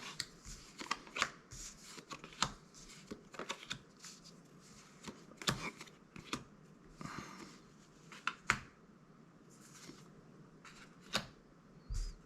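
Magic: The Gathering cards being handled and flipped through one at a time: soft, irregular clicks and short swishes of card stock sliding against card.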